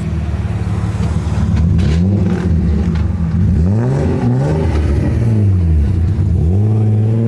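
A car engine idling with a low rumble, then revved several times from about two seconds in, its pitch rising and falling with each blip, before settling back to idle near the end.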